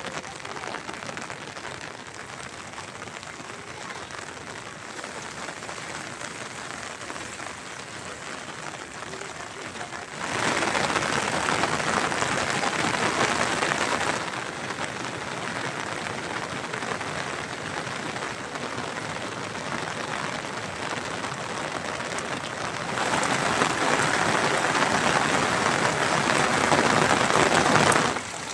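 Steady rain falling, an even hiss. It turns abruptly louder twice: for about four seconds, ten seconds in, and again for the last five seconds.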